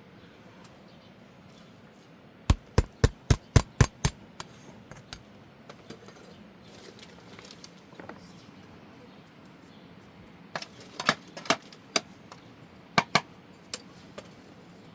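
Sharp knocks: a quick run of about seven, roughly four a second, then after a long pause a few more scattered knocks near the end.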